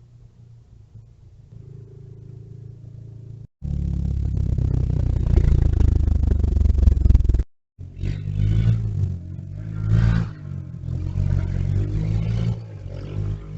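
Motor vehicle engine sound. A low hum breaks off abruptly about three and a half seconds in, then comes a loud rushing passage. After a second abrupt break, an engine revs up and down several times.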